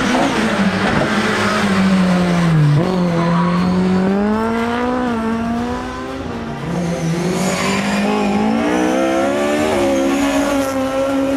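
Rally car engine revving hard under load, its pitch repeatedly climbing and falling, with a sharp drop about three seconds in.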